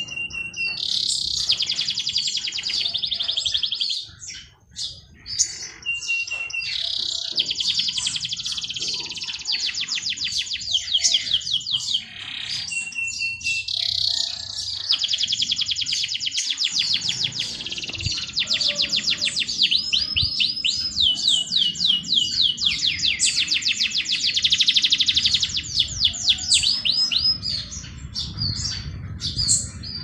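A songbird singing a series of long, very rapid trills, several of them opening with a short steady whistle note, with scattered high chirps between the songs.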